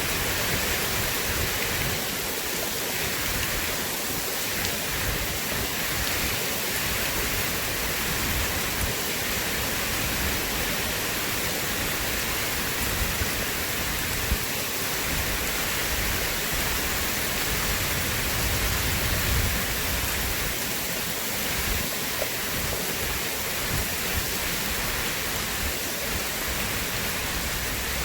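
Steady rain, an even hiss with scattered drop ticks. A low rumble of distant thunder swells briefly about two-thirds of the way in.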